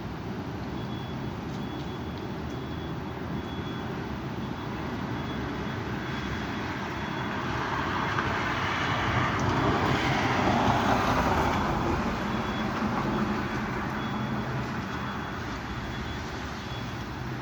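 Steady outdoor rushing noise of strong wind, swelling louder in the middle and easing off again. A faint high beep repeats throughout.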